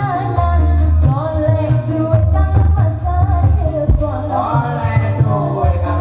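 A song with a sung vocal line over heavy bass notes, played loud through a demo sound system's speakers and subwoofers.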